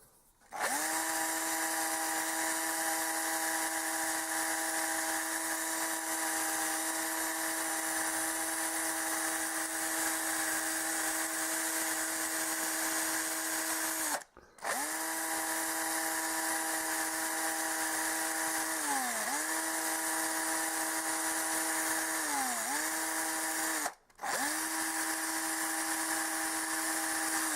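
A small high-speed electric power tool, such as a drill or rotary tool, running with a steady whine and a hiss, used in restoring a steel center punch. It stops and spins back up twice, and its pitch sags briefly twice, as when it is pressed against the work.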